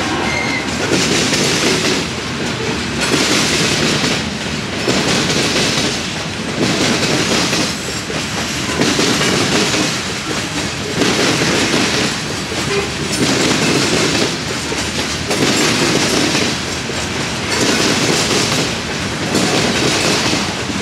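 Freight train of covered hopper cars rolling past close by, the wheels clattering on the rails. The clatter swells and fades about once a second.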